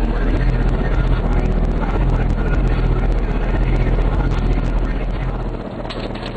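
Four 12-inch car subwoofers, two Power Acoustik FUBR12s and two Kicker CVRs in a ported box, playing bass-heavy music loud, with deep, steady bass and shifting low notes. The deepest bass drops away near the end.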